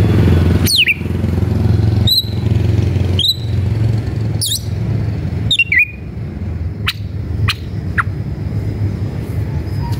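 Oriental magpie-robin (kacer) giving sharp, sweeping calls about once a second, then three short thin high notes near the end, over a steady low hum. It is an agitated bird in a fighting mood, calling out to a rival.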